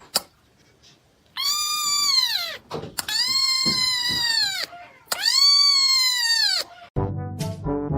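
A cat meowing three times in long, drawn-out calls, each rising and then falling in pitch. A short jingle with boing sounds starts near the end.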